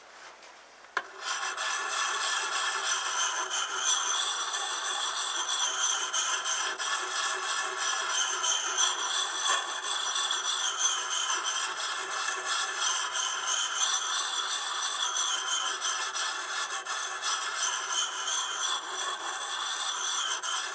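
Oiled Lansky Puck sharpening stone, fine side, grinding along the edge of an Estwing camp hatchet: a continuous rasping scrape that starts about a second in, with a steady high ringing tone over it.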